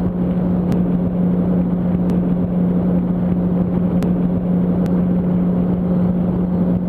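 Yamaha R1 inline-four engine holding a steady cruising speed on the freeway, one even drone that does not change pitch, under a rush of wind and road noise.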